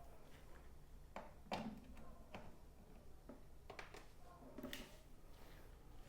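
Quiet background with about half a dozen faint, irregular clicks and knocks over a low hum.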